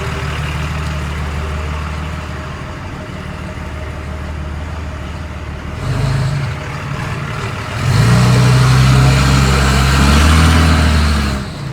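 Swapped 24-valve Cummins diesel running in Drive through a 5R110W automatic without stalling, its downpipe not connected to the exhaust. It runs steadily, revs up briefly about six seconds in, then pulls harder and louder for about three seconds from about eight seconds in before dropping back.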